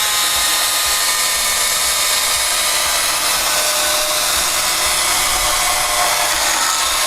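STIHL GTA 40 battery pruning saw cutting through hard wood: a steady, crisp, high-pitched chain-cutting sound over the electric motor's whine, holding an even level throughout.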